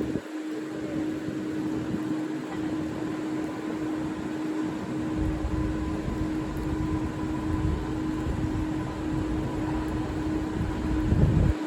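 Train at a station: a steady electric hum with a low rumble that sets in about five seconds in and swells briefly near the end.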